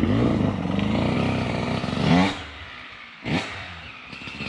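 Dirt bike engine running under throttle, rising in pitch as it revs about two seconds in, then dropping back, with a short blip of throttle about three seconds in.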